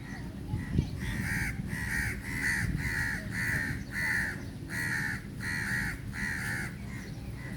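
A crow cawing over and over, about ten short harsh calls at roughly two a second, over a steady low background rumble. A single sharp bump sounds about a second in.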